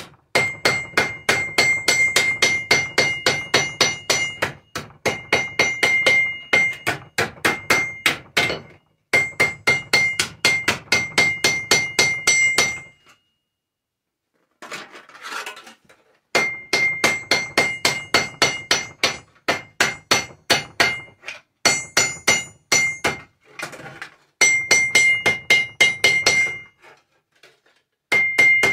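A hammer beating a tin can flat against a hard surface: rapid, evenly spaced strikes, several a second, in runs of a few seconds with short pauses and one longer break in the middle. The thin sheet metal rings with a steady high tone under the blows.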